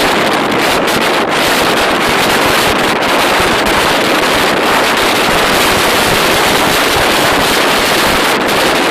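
Storm-force wind blowing over the microphone: a loud, steady rush of noise that does not let up.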